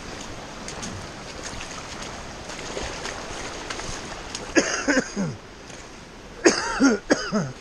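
Steady rush of running water from a waterfall, with two short bursts from a person's voice about four and a half and six and a half seconds in.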